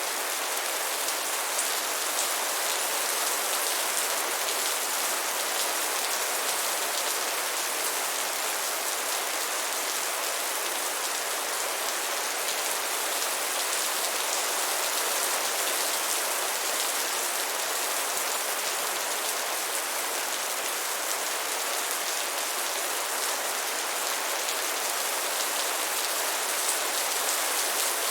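Steady heavy rain falling, an even hiss of dense drops with fine individual ticks scattered through it.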